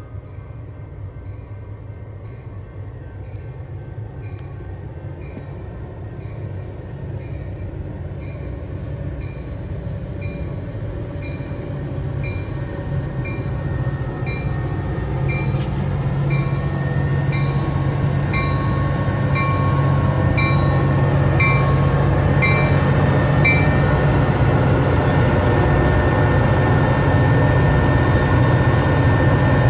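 Metra commuter train with a diesel locomotive approaching. Its engine rumble and rail noise grow steadily louder. A rhythmic ringing of about two strikes a second runs until about three-quarters of the way through.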